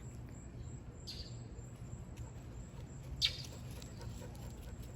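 A bird calling twice, each a short call that drops quickly in pitch, the second one louder, over faint steady background noise.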